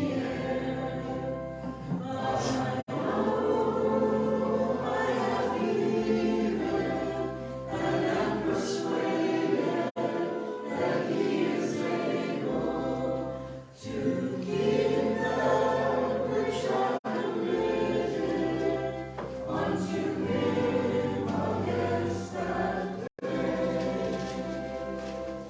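A group of voices singing a hymn together over sustained low accompaniment notes.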